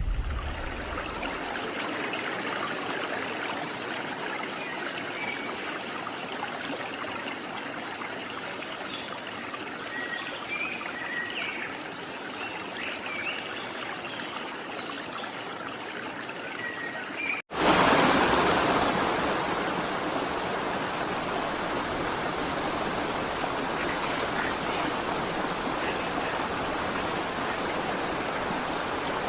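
Stream water flowing steadily, with a few faint short chirps in the first half. About 17 seconds in there is a sudden cut to a louder, fuller rush of water.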